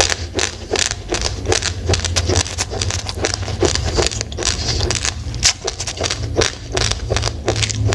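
Close-up crunching of uncooked rice grains being chewed: rapid crisp crunches, several a second, over a low steady hum.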